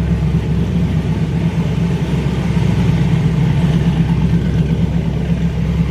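Twin-turbo Camaro engine idling steadily.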